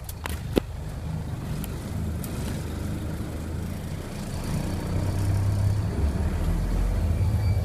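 Truck engine running steadily with a low rumble that gets louder about five seconds in, with a couple of sharp clicks at the start.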